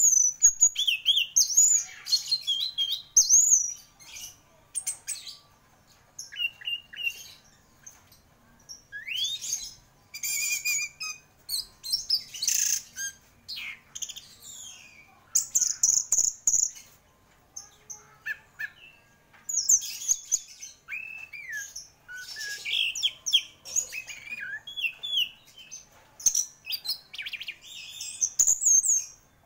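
Orange-headed thrush singing a rich, varied song of short whistled phrases, slurred notes and chirps. It comes in quick bursts separated by brief pauses.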